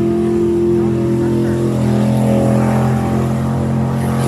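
Race truck engines running hard at a steady, held engine note.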